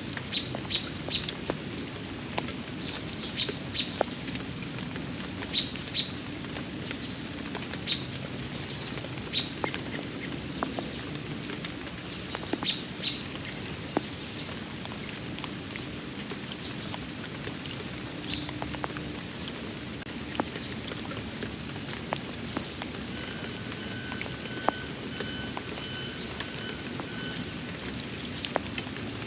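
Steady rain falling on the backyard pond, with single heavy drops landing close by as sharp ticks. Birds give short high chirps through the first half, and a bird sings a thin, even trill near the end.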